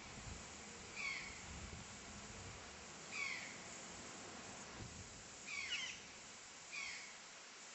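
A bird calling four times, each a short falling note with overtones, about two seconds apart, over a steady background hiss.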